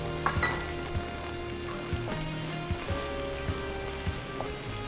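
Fish fillet sizzling steadily as it fries in margarine and oil in a nonstick pan, with a few light knife taps on a plastic cutting board as an onion is sliced.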